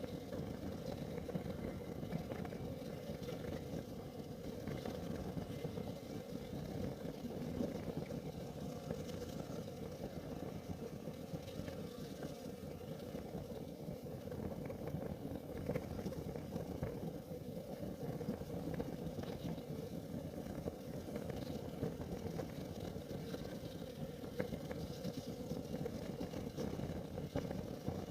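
Kerosene heater burning: a steady low rumble from the flame, with small crackles and ticks scattered through it.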